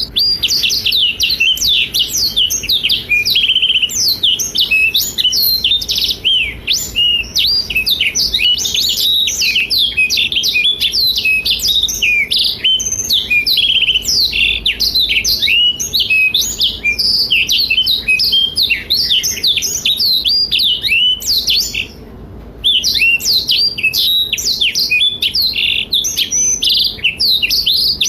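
Blackthroat (black-throated canary) in full song: a fast, nearly unbroken stream of high chirps and trills, pausing once briefly about three-quarters of the way through.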